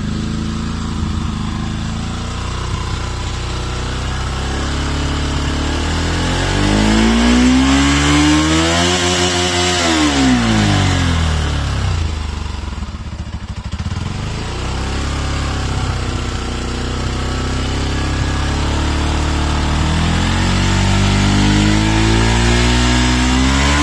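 Bajaj Pulsar NS200's single-cylinder engine and exhaust being revved. It starts at a low steady speed, is blipped up and back down once, settles low near the middle, and then climbs slowly towards high revs near the end.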